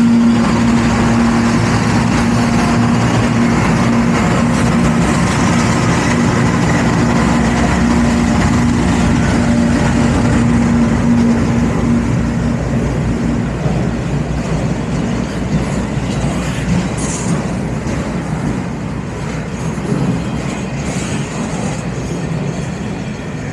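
Freight train rolling past, its wheels running on the rails, with a steady low drone that stops about halfway through; after that the train noise slowly eases off.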